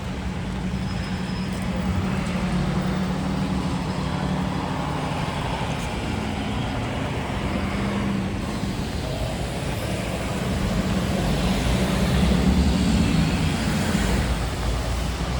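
City street traffic on a rain-wet avenue: engines running with a steady low hum and tyres hissing on wet pavement. It grows louder about eleven seconds in as vehicles pass close by, then eases.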